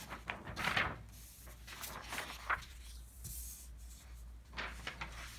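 Pen on paper: short, scratchy writing strokes with light rustling, coming at irregular intervals over a low steady hum.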